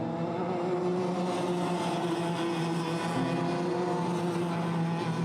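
Several two-stroke Rotax kart engines running hard at high revs, their tones overlapping and holding steady.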